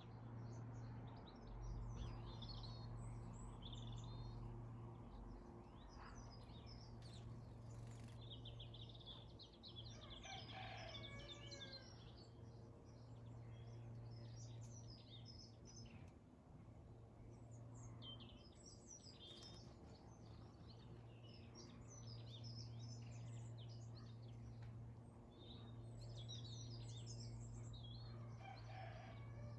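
Garden birds chirping and twittering in many short high calls, with a denser, more varied call about ten seconds in and again near the end, over a faint, steady low hum.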